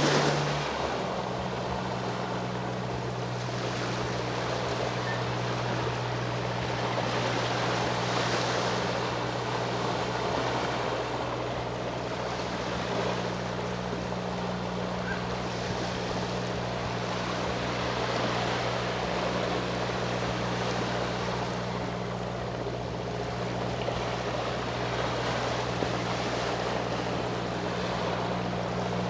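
Sea waves washing onto the shore, surging and falling back every few seconds, over the steady low hum of a boat engine running offshore.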